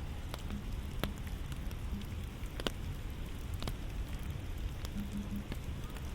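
Steady rain falling, with scattered sharp drops striking close by every second or so over a low rumble.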